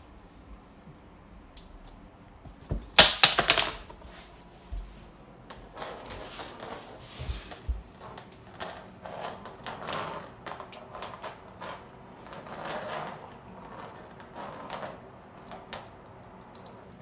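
Cat biting and pawing at a hairbrush: irregular clicks, scrapes and rustles of the brush, with a loud clattering burst about three seconds in.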